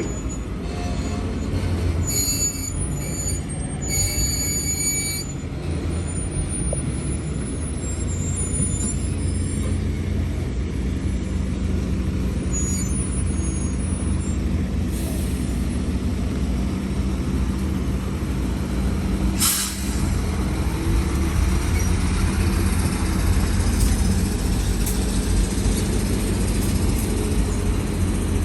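Heavy diesel engines of an excavator and dump trucks running steadily, with high-pitched metallic squeals during the first half. A brief sharp hiss comes about two-thirds of the way through.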